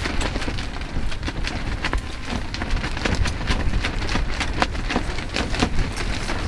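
Firewood burning in a camping fire pit, crackling with irregular sharp pops over a steady low rumble.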